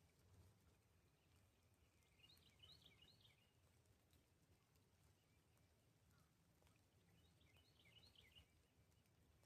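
Near silence, with a faint songbird phrase of quick chirping notes heard twice, about five seconds apart, over a low, steady rumble.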